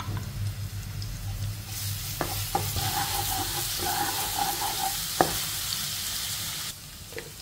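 Minced garlic sizzling in hot oil in a nonstick wok while a wooden spatula stirs it, with a few sharp knocks of the spatula against the pan. The sizzle grows loud about two seconds in and drops away suddenly near the end.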